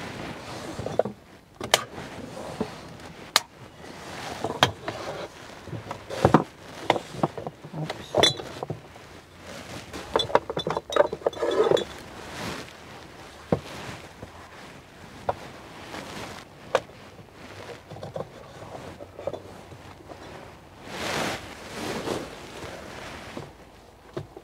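Camp cooking gear being handled and set out: irregular knocks, taps and metallic clinks of utensils and containers, with a steady background hiss.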